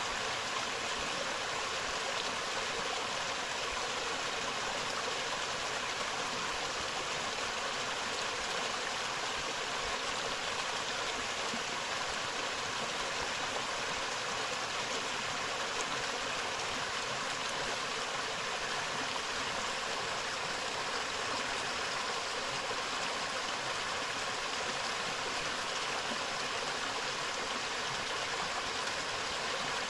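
Forest river flowing, a steady rush of water.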